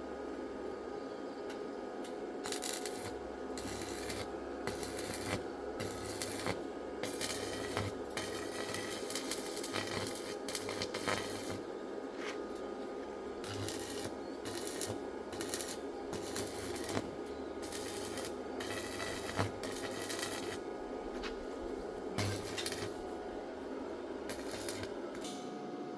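Irregular metallic clinks, taps and scraping, as of tools and parts being handled at a workbench, over a steady low hum.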